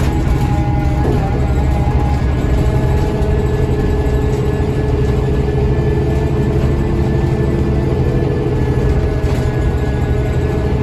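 A Scania L94UB bus's DC9 nine-litre five-cylinder diesel engine running steadily under way, heard from inside the cabin.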